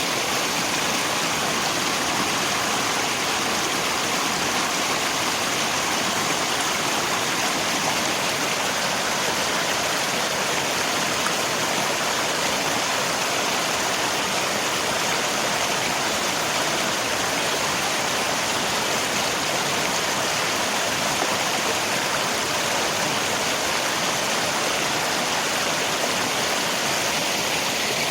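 Rain and rushing river water, a steady, even rushing noise.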